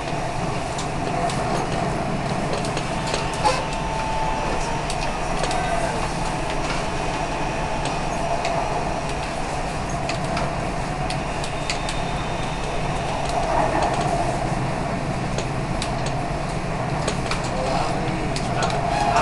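Dubai Metro electric train running at speed, heard from inside the carriage: a steady rumble and hum with scattered light clicks, and one short knock a few seconds in.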